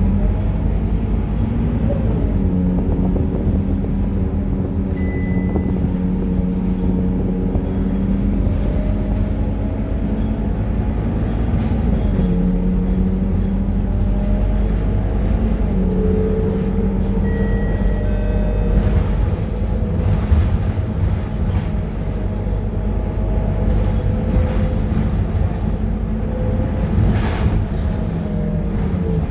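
Scania K230UB city bus's diesel engine running on the road, a low steady drone whose pitch steps up and down several times as it pulls through the gears. A few short high beeps sound partway through.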